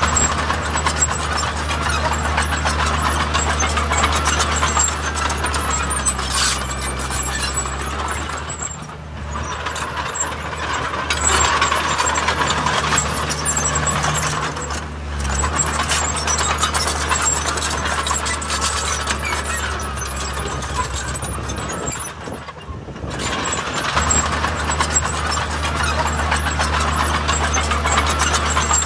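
Heavy diesel construction machinery working: a low, steady engine note under continuous metallic clanking and rattling. The sound eases off briefly twice.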